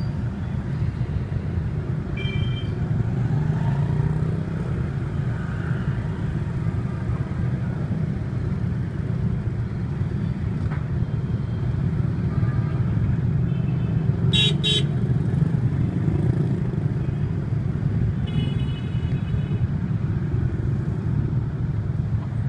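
Dense rush-hour motorbike and car traffic heard from inside a taxi: a steady rumble of engines, with horns honking. There is a short honk about two seconds in, two quick beeps near the middle, and a longer honk near the end.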